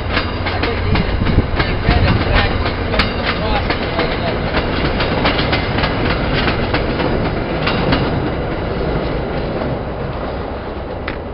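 Commuter passenger train coaches rolling past at speed, their wheels clicking rapidly over the rail joints over a steady rumble. The clicking thins out and the sound fades over the last few seconds as the last car pulls away.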